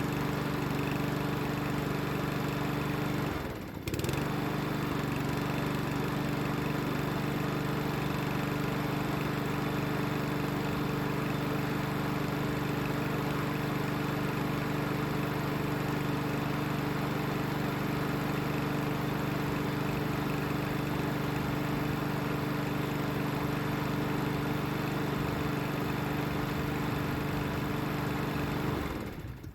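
Mountfield SP185 lawnmower's ST140 single-cylinder overhead-valve petrol engine running steadily after its carburettor was cleaned and fresh fuel put in. The sound dips briefly a few seconds in, and the engine stops near the end.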